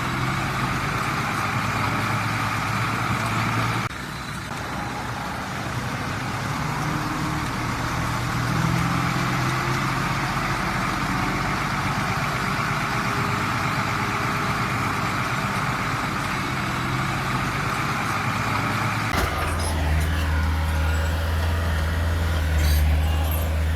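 Heavy diesel engines of earthmoving machinery, a bulldozer and dump trucks, running steadily. The engine sound shifts abruptly about 4 s in and again near 19 s, where a deeper, louder low hum takes over.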